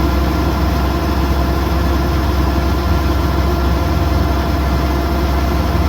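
Kubota DC108X combine harvester's diesel engine running steadily, a constant low drone with no change in pitch or level.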